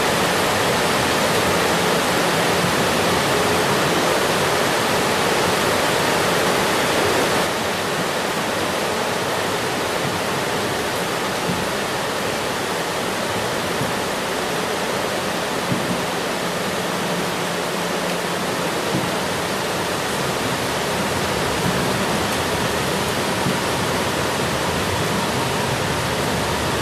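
Steady heavy rain, an even rushing hiss. About seven seconds in, it drops slightly in level and changes in tone.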